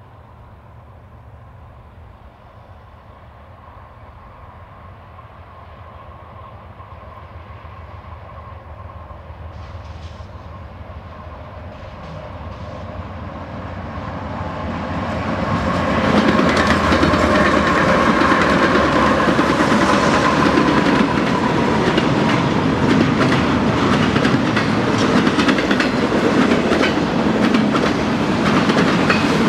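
BNSF diesel locomotives leading a double-stack intermodal freight train, their low rumble growing steadily louder as they approach and pass about halfway through. After that the container cars roll by with a steady, loud clatter of wheels on rail.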